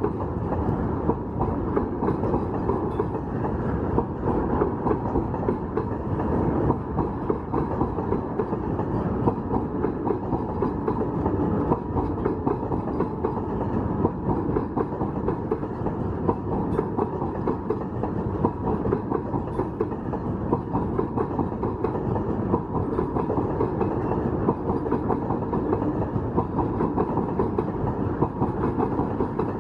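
Bogie tank wagons (BPTN) of a freight train rolling past close by: a steady rumble of wheels on rail, with a constant run of clacks as the wheels cross rail joints.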